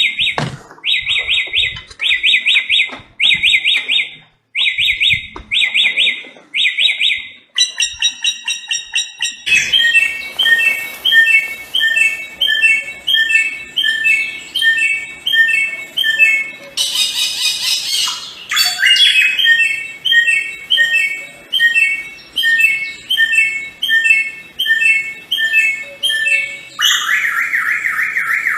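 Samyong songbird singing loud, repeated short phrases. The song changes pattern several times: spaced phrases at first, then a fast, even run of repeated notes broken by a brief harsh burst, and near the end a lower, buzzing trill.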